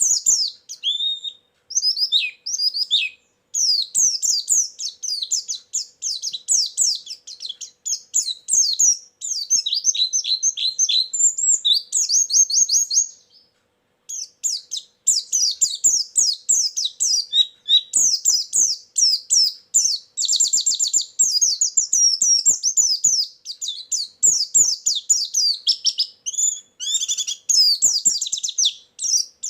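White-eye (pleci) singing a rapid, high twittering song of fast chirps and trills, broken by a short pause about halfway through. It is a lure recording, played to draw in other white-eyes.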